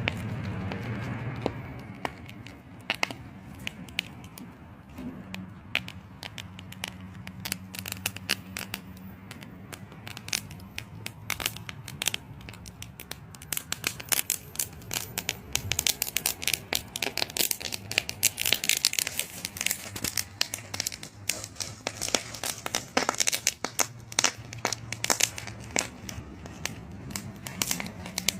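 Corn stalks and leaves crackling and tearing in quick, irregular bursts that grow denser past the middle, over a low hum that comes and goes.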